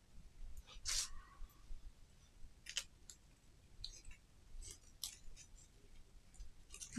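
Faint, scattered small clicks and rustles of hands working with craft tools and wire-stemmed artificial leaves. A sharper click about a second in has a brief ring after it.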